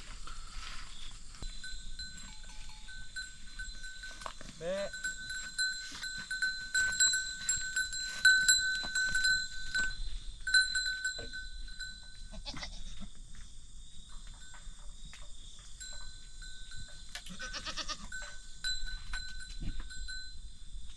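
Goats bleating, once about five seconds in and again near the end, over a steady high-pitched insect-like drone that comes and goes.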